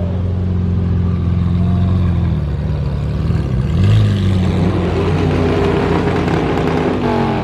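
A car engine running steadily, then revving up about four seconds in, holding higher revs and dropping back near the end.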